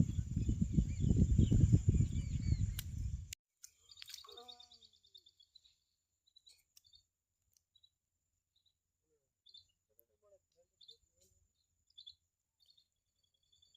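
A loud, rough rumbling noise for about three seconds that cuts off suddenly, leaving near quiet with scattered short, high bird chirps.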